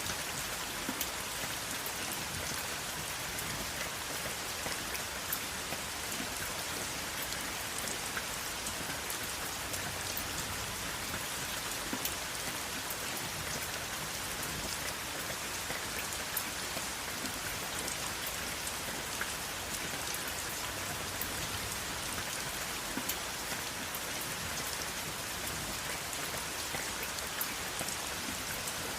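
Steady rain falling on a surface, an even hiss with many small drop ticks scattered through it and no thunder.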